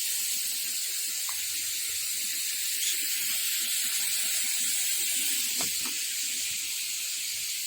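Fountain water splashing, a steady hiss.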